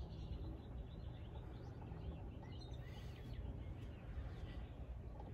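Faint birds chirping, with many short chirps, over a steady low outdoor background rumble.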